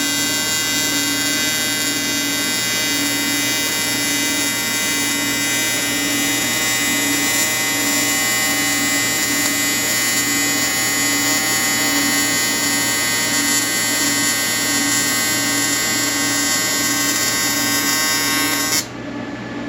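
TIG welding arc buzzing steadily, with a regular low pulse beneath it; the arc cuts off abruptly near the end.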